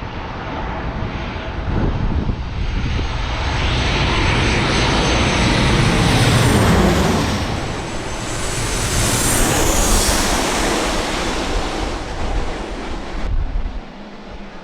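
Boeing 737-800 jet airliner passing close on its landing, the engine roar swelling to a peak with a high fan whine that falls in pitch as it goes by. The sound cuts off abruptly near the end.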